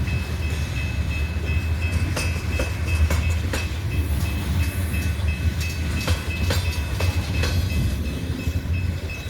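A BNSF coal train rolling slowly along the track: a steady low rumble with irregular clacks and knocks from wheels and couplers, and a thin steady high whine above it.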